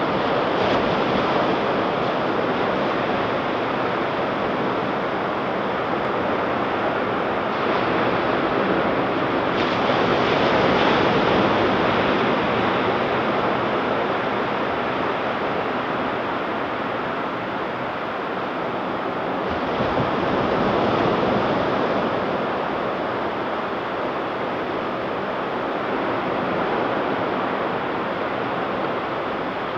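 Ocean surf breaking on a beach: a continuous rush of waves that swells louder about ten seconds in and again about twenty seconds in, with some wind on the microphone.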